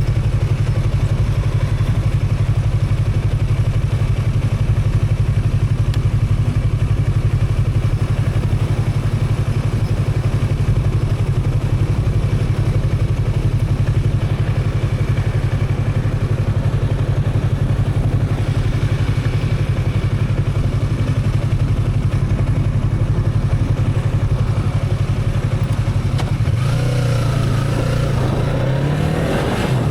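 Motorcycle engine running steadily under way. Near the end its pitch shifts up and down in steps as the speed changes.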